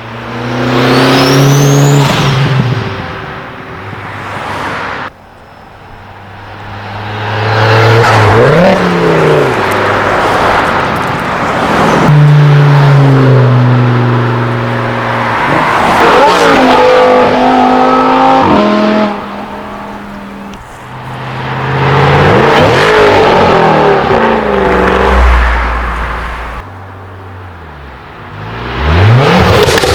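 Modified tuner cars accelerating away one after another, their engines revving up and down through loud exhaust. Several separate passes, broken by quieter gaps and a couple of sudden cuts.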